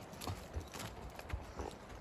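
Hoofbeats of horses walking under saddle on a trail: an uneven run of dull thuds with a few sharper knocks, roughly two or three a second.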